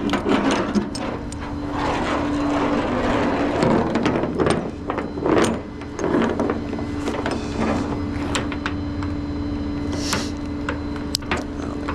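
A vehicle engine running steadily, with scattered clicks, clanks and rattles of gear being handled, and a louder knock about ten seconds in.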